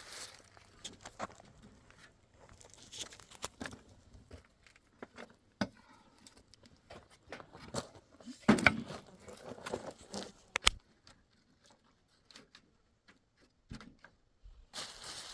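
Scattered light knocks, taps and clicks of objects being handled, at uneven spacing, with a couple of louder knocks a little past halfway.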